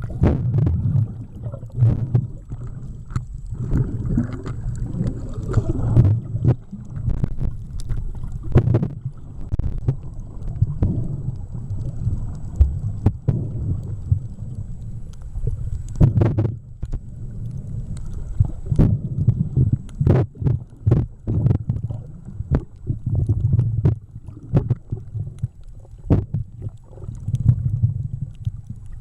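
Muffled underwater sound picked up by a camera held under water while snorkelling: an uneven low rumble and sloshing of water, with frequent sharp clicks and knocks.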